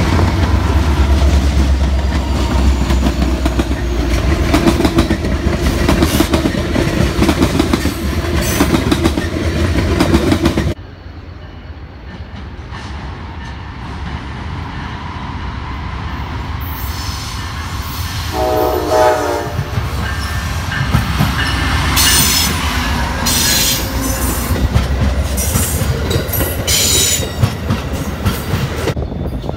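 Several diesel freight locomotives and their cars rumble past close by. After a sudden cut, a train horn sounds once for about a second, then an Amtrak passenger train passes with wheel clatter on the rails.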